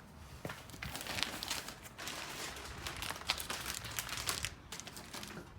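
Packing material crinkling, rustling and tearing in irregular handfuls as a box of exhaust headers is unwrapped.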